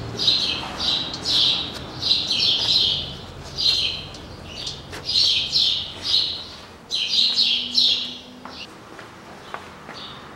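Small birds chirping in quick repeated bursts of short downward notes, dying away after about eight seconds, with a few faint clicks in between.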